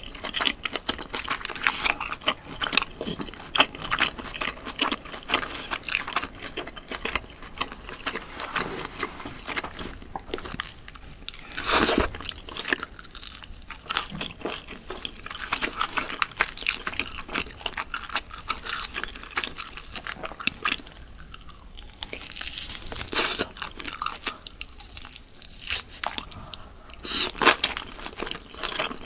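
Close-miked chewing and biting of glazed grilled meat skewers: a continuous run of wet, crackly mouth sounds, with louder crunches about twelve seconds in and again near the end.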